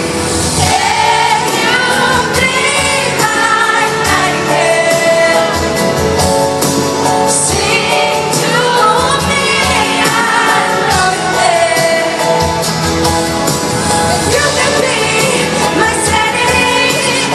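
Live pop ballad: a woman's lead vocal sung over band accompaniment at a concert, the sung melody gliding and holding notes.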